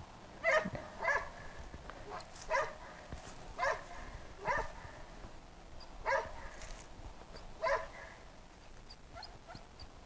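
An animal calling in short, sharp yelps, about seven of them at uneven gaps of a second or more. Faint high chirps follow near the end.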